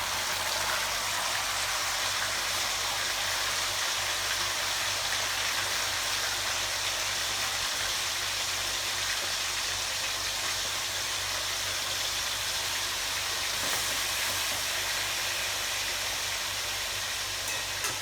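Pork pieces deep-frying in hot oil, with a steady, even sizzle and a faint low hum beneath.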